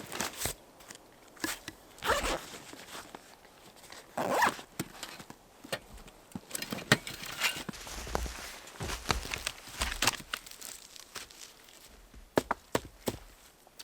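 Irregular handling noises: short scrapes and clicks, with two longer rasping pulls about two and four seconds in, like a zipper being worked.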